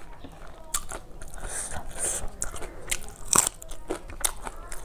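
Close-miked chewing of a mouthful of rice and fish curry: irregular wet mouth clicks and crunches, the loudest crunch about three and a half seconds in.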